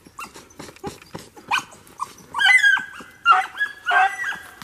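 Rabbit-hunting hounds baying on a trail: after a couple of seconds of light crackling, the dogs open up with several loud, drawn-out cries in quick succession.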